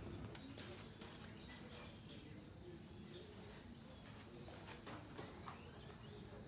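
Small birds chirping faintly: short, high chirps, about one a second in the second half, with a few faint knocks near the start.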